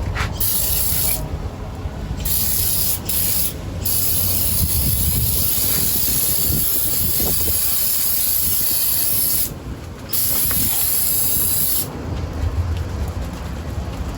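Aerosol spray can hissing in several bursts, a few short ones and then a long spray of about five seconds and another of about two, as degreaser is sprayed onto the grease in an engine bay.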